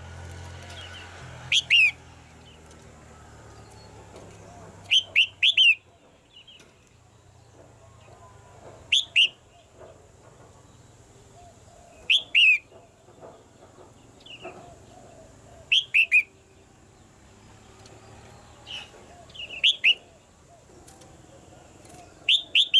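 Caged female red-whiskered bulbul calling: short, sharp, falling chirps in clusters of two or three, repeated every three to four seconds.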